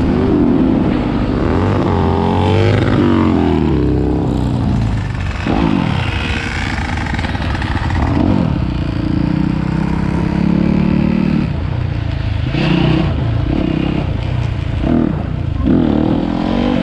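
Motorcycle engines, likely dirt bikes, revving up and down again and again, the pitch rising and falling many times.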